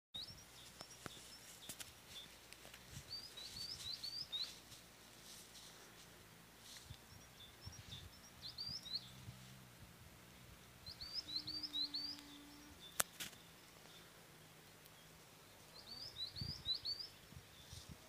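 A small bird singing short phrases of three or four quick rising chirps, repeated every few seconds, with a single sharp click about thirteen seconds in.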